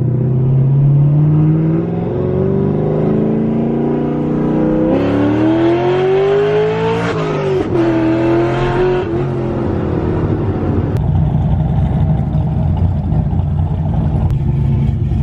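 A loud car engine accelerating hard: its pitch climbs for about seven seconds, drops sharply, holds briefly, then settles back to a steady lower running sound.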